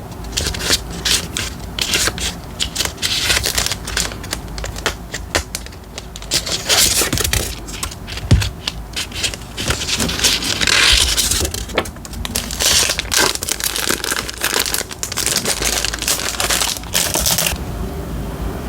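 Paper and stickers being handled for diary decorating: crinkling and rustling paper, with many small clicks and taps throughout.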